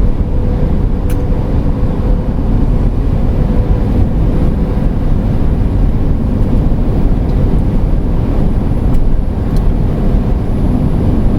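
Steady road and engine noise inside a moving camper van at cruising speed, mostly a low, even rumble.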